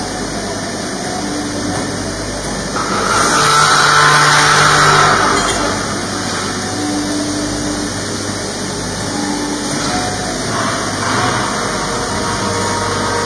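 Pipe bending machine running: a steady mechanical hum with short motor whines that start and stop, and a louder hissing surge about three seconds in that lasts roughly two seconds.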